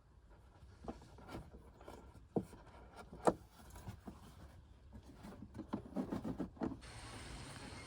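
Objects being handled: scattered knocks and rubbing with a couple of sharper clicks, then a cluster of quick knocks; near the end a steady rushing noise takes over.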